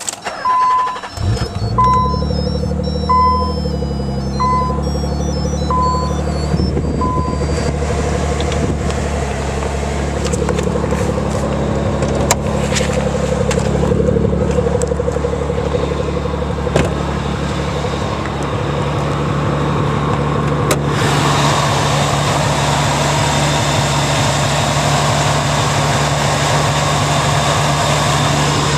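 A 1990 Nissan 300ZX Twin Turbo's 3.0-litre twin-turbo V6 starts about a second in and settles into a steady idle. A dashboard warning chime beeps six times at an even pace over the first several seconds. About two-thirds of the way through, a steady rushing hiss joins the idle.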